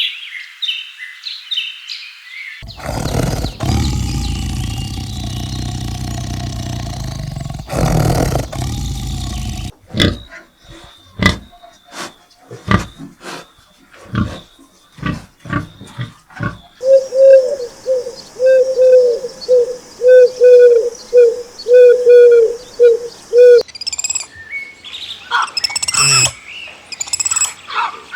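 A string of different animal sounds. It starts with bird chirps, then a long, loud roar, a run of sharp clicks, a steady series of short repeated calls about two a second, and squawking calls near the end.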